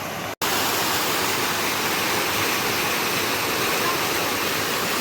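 Steady rushing of a waterfall, broken by a brief dropout to silence about half a second in, after which it runs a little louder.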